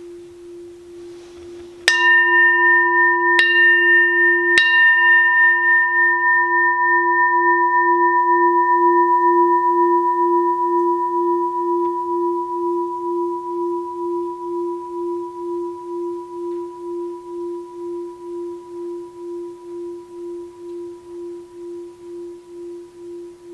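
A six-sun Daitokuji rin (Buddhist bowl bell), its bottom dented from being dropped, struck about two seconds in and twice more lightly soon after, then left to ring. The clear tone dies away slowly, the low note wavering in a slow pulse, and it still sounds good despite the dent.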